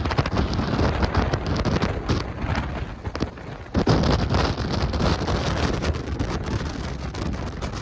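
Strong tornado inflow wind gusting hard against the microphone, with rain, growing louder about four seconds in.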